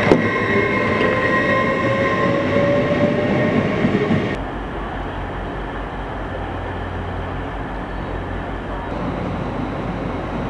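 Class 57 diesel locomotive and its charter train running into a station, with steady rail noise, high squealing tones and a slowly rising whine. About four seconds in this gives way abruptly to a lower, steady rumble with an even low throb.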